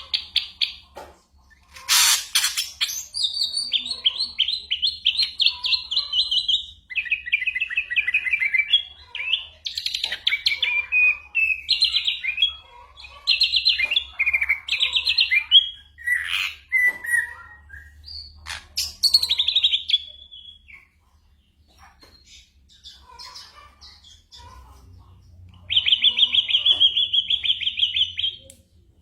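Ashy drongo singing a varied, mimicking song of fast trilled and buzzy phrases, with one harsh loud note about two seconds in. It pauses for a few seconds, then ends on a long, even trill.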